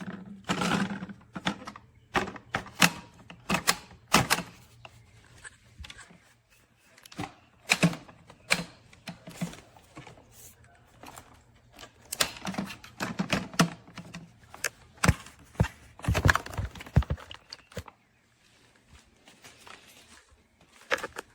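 Irregular clicks, knocks and thuds of a cordless wet-dry floor cleaner's parts being handled, most likely its dirty-water tank or debris channel being taken out and refitted, with a quieter stretch near the end.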